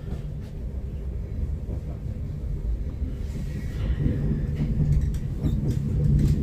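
Electric commuter train running on rails, heard from inside the carriage: a steady low rumble that grows louder about four seconds in, with a few sharp clicks near the end.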